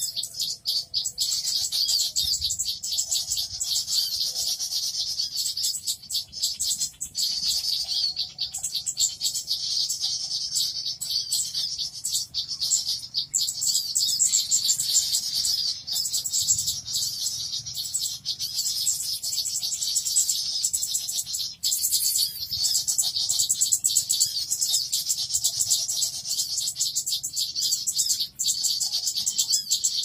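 Dense, unbroken high-pitched chirping and chattering of small birds, a bird-lure (pikat) call recording meant to draw birds in.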